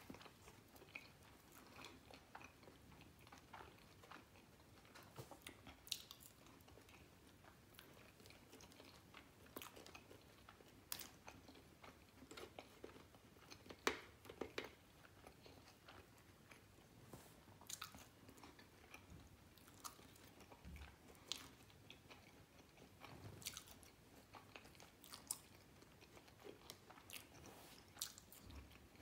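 Faint chewing and biting by a person eating a burger meal, with scattered irregular mouth clicks.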